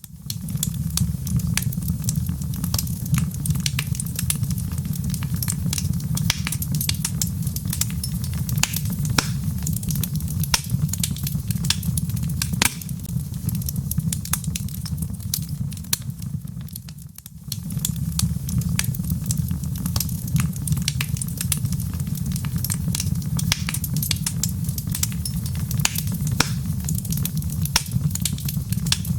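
Log fire burning in a fireplace, with dense irregular crackles and pops over a steady low rumble. The sound dips briefly a little past halfway, then picks up again.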